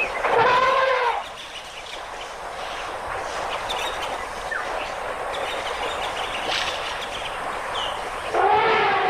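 Elephant trumpeting: a loud blast of about a second at the start, and another that begins near the end. Between the calls there is a steady background hiss with a few faint chirps.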